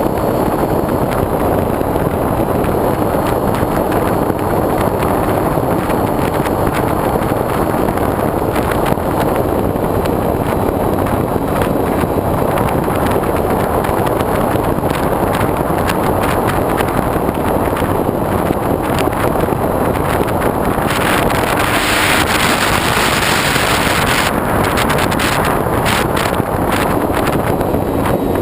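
Airflow rushing over a GoPro mounted on the wing of a foam RC plane in flight, a loud steady rush with a faint steady hum under it. About three-quarters of the way through the rush turns louder and hissier for a few seconds, then settles back.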